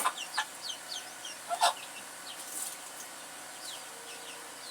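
Chickens clucking and peeping, a run of short, high, falling chirps, with one sudden louder sound about a second and a half in.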